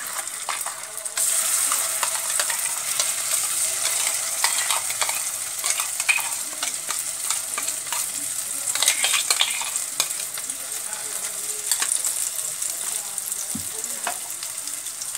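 Spiny gourd (kakrol) paste sizzling as it is scraped into hot mustard oil in a karai, with the wooden spatula and the mixer jar clicking and scraping against the pan. The sizzle grows louder about a second in as the paste hits the oil.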